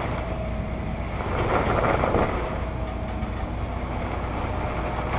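Jeep Wrangler JK engine running under load as it crawls a rocky waterfall obstacle, with a steady low rumble and a louder surge about a second and a half in.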